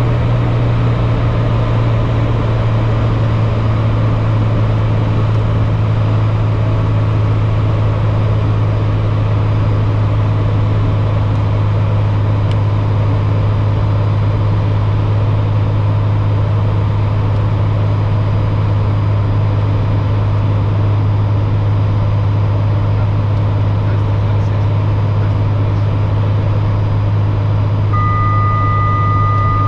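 Steady low drone of an airliner in flight on its landing approach: an even engine and airflow hum with a strong low note. Near the end a steady high beep begins.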